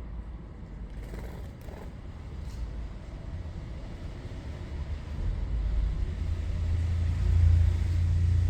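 A low rumble that swells louder from about five seconds in and peaks near the end, with a few faint clicks in the first seconds.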